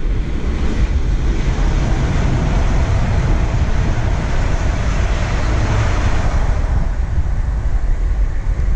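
Class 350 Desiro electric multiple unit passing at speed, a rushing rumble of wheels on rail that swells to a peak about halfway through and then fades. Heavy wind buffets the microphone throughout.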